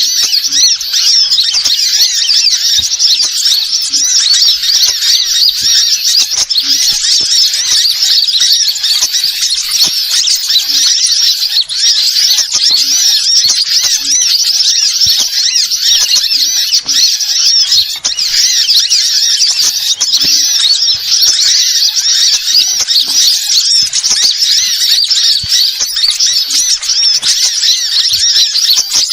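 Bird lure call: birds chirping and twittering in a dense, continuous stream of quick high-pitched notes.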